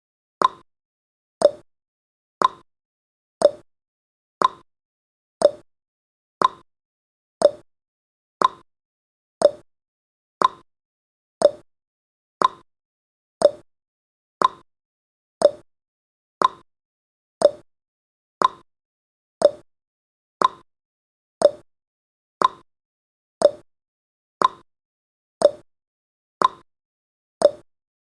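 Countdown timer's clock-tick sound effect: a short, sharp tick exactly once a second, each with a brief ring.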